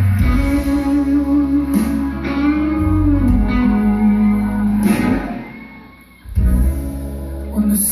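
Guitar playing the slow intro of a song, with sustained notes that bend up and down over low bass notes. The playing fades away about five seconds in and comes back strongly a second later.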